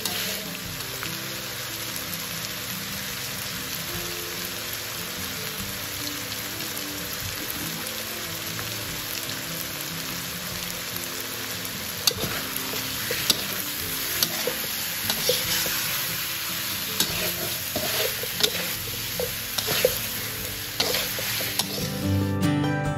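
Chicken pieces in turmeric spice paste, with potato and lemongrass, sizzling steadily as they are stir-fried in a steel wok. From about halfway, the spatula clinks and scrapes against the wok. Faint background music plays underneath.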